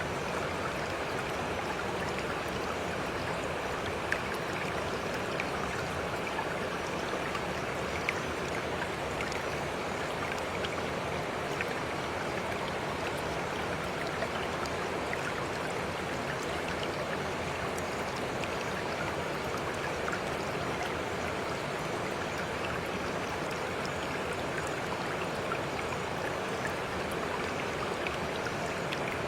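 A stream of running water, a steady even rush with an occasional faint tick.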